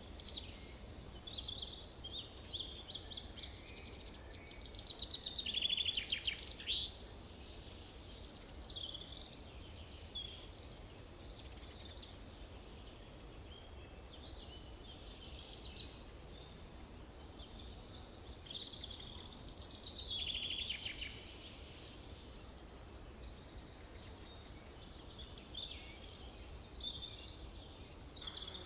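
Several songbirds singing and chirping in a forest, overlapping short trills and calls, loudest in a few bursts.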